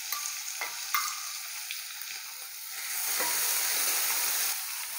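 Crushed ginger, garlic and green chilli frying in hot ghee in a stainless steel pan, with a steady sizzle. A wooden spatula stirs the paste and knocks against the pan a few times. The sizzle grows louder about three seconds in as the paste is spread through the ghee.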